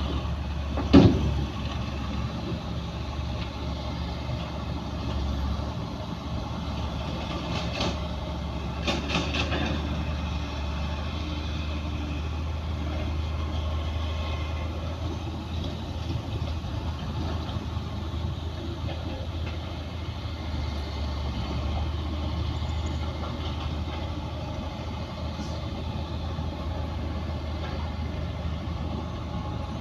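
Heavy diesel engines of earthmoving machinery, a bulldozer and dump trucks, running steadily with a low rumble. A sharp knock sounds about a second in, and a few metallic clatters follow around nine seconds in.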